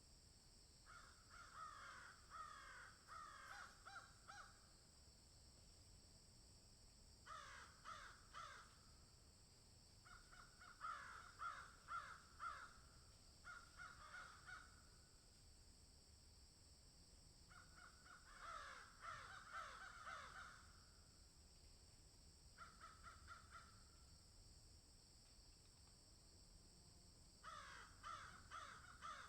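Crows cawing in bouts of several harsh calls, each bout lasting one to three seconds, with pauses of a few seconds between bouts. A steady high hiss runs underneath.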